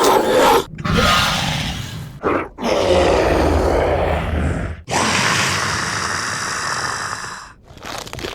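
Sound-effect beast growls and snarls, a run of about four, each one to nearly three seconds long with brief breaks between them.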